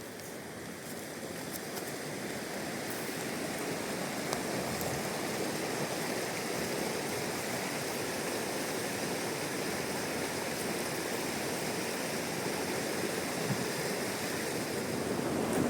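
Rushing river water, a steady rush that grows louder over the first few seconds and then holds steady.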